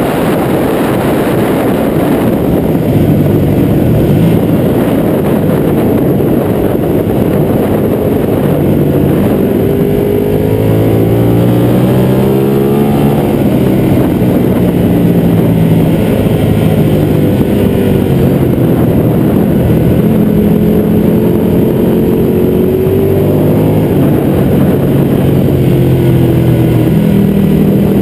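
Ducati 1199 Panigale's Superquadro L-twin engine under hard acceleration, its note climbing and then dropping back several times, heard through heavy wind rush over a fairing-mounted camera.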